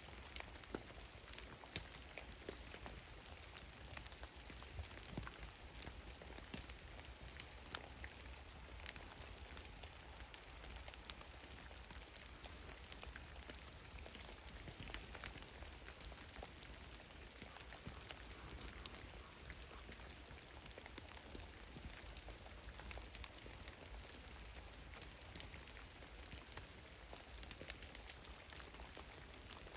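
Meltwater drops falling from melting snow in a forest: many faint, irregular ticks and patters, with one louder drop near the end, over a faint low rumble.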